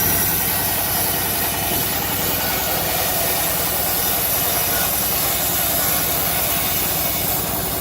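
Engine of a homemade bandsaw mill running steadily while the blade saws through a teak log.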